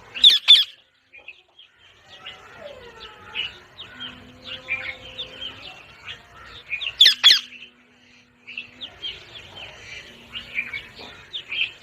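Pet parrot calling: a loud, harsh screech just after the start and another about seven seconds in, with softer chirps and chattering in between.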